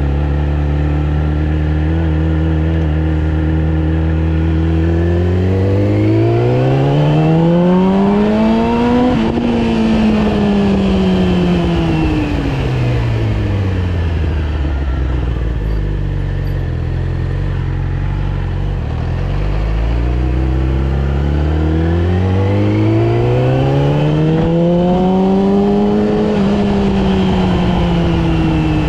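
Yamaha R6 inline-four sport-bike engine heard from onboard, running at low steady revs, then revving up smoothly under acceleration for about four seconds and falling back as the throttle closes. It settles low again, then climbs and drops once more near the end.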